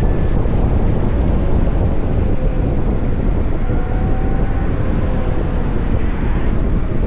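Wind buffeting the microphone while riding a VMoto Stash electric motorcycle through traffic, a steady low rush with faint whines that drift slightly in pitch.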